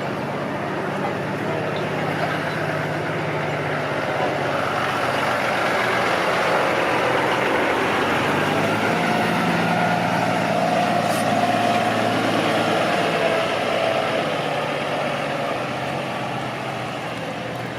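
Street traffic dominated by a heavy vehicle's engine, likely a bus or truck, running with a steady low hum that grows louder through the middle and eases off near the end.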